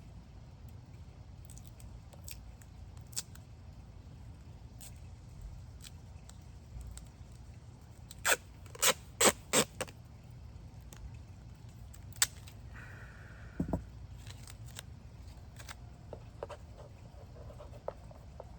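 Sharp clicks and snaps of small objects being handled at a work surface: scattered light clicks, a quick run of about five loud clicks near the middle, one more a couple of seconds later, and a brief short tone just after it.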